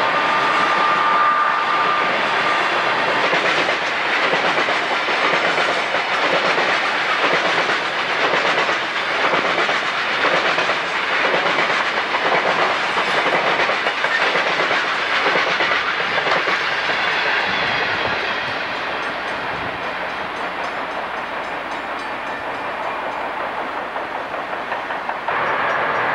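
Freight train's open-top cars rolling past, steel wheels clacking over rail joints under a steady rolling rumble. A faint two-note tone sounds in the first couple of seconds, and the noise eases a little in the last third.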